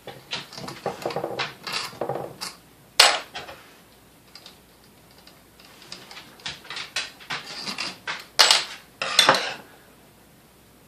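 Metal parts and tools of a Sunbeam Mixmaster 7B stand mixer being handled during disassembly, clinking and knocking at irregular intervals. The sharpest knocks come about 3 s in and twice near 8 to 9 s.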